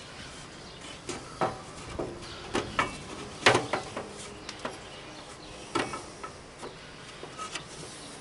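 Plastic hood and grille parts of a Craftsman garden tractor being handled and fitted together: a scattered run of short clicks and knocks, the sharpest about three and a half seconds in.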